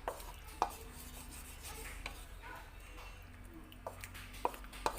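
A cooking utensil stirring in a pot of tomato-paste sauce, clinking against the pot a handful of times.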